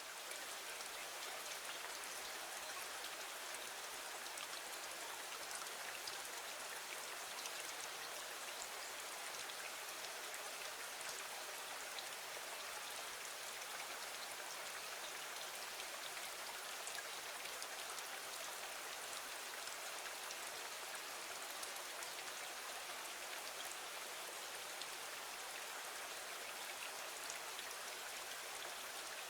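Steady rain falling against a window, an even hiss dotted with many fine drop ticks, over a faint low hum.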